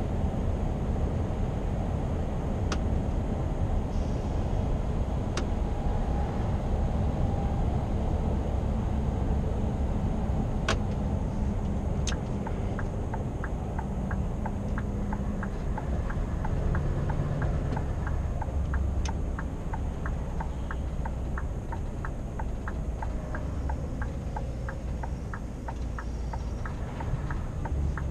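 Scania R520 V8 truck running at road speed, a steady low rumble. About halfway through a regular ticking starts, about two ticks a second, typical of the turn-signal indicator.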